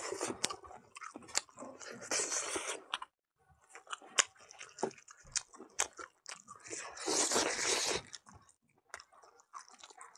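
Close-miked eating: chewing and crunching mouthfuls of a Naga dish of pig blood and fat, eaten by hand, with irregular sharp clicks and two louder spells of munching about two and seven seconds in.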